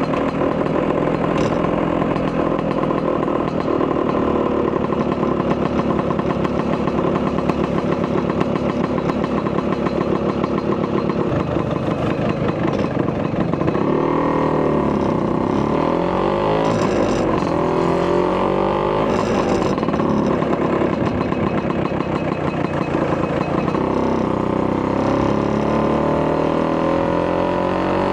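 Vespa PX200 scooter with a Polini 210cc two-stroke single-cylinder kit and Malossi expansion-chamber exhaust, running under way at a steady pitch, then from about halfway its pitch rising and falling repeatedly as the throttle is opened and closed.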